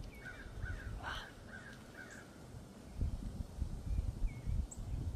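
A bird calling five times in quick succession, short arched calls about half a second apart, over a low rumble that grows louder in the second half.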